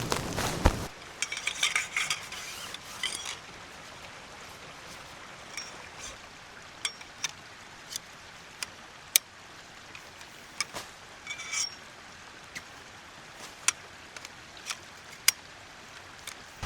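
Light metallic clinks and taps, like utensils against a tin or pot: a quick flurry of small ringing clinks about one to three seconds in, then single sharp ticks spaced out over a quiet, even background.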